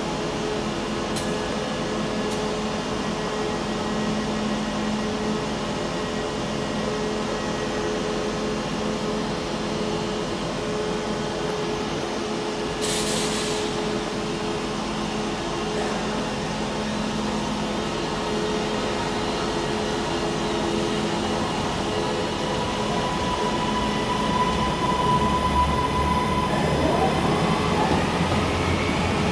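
Northern CAF multiple-unit train standing at the platform with a steady low hum from its underfloor equipment, and a short hiss about 13 seconds in. Near the end a whine rises in pitch and the sound grows louder as the train starts to pull away.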